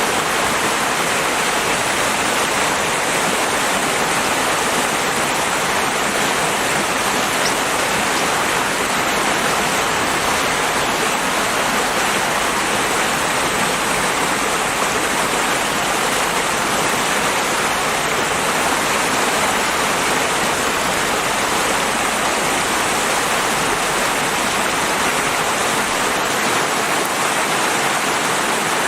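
River water rushing and flowing steadily, a loud, even, unbroken wash of sound.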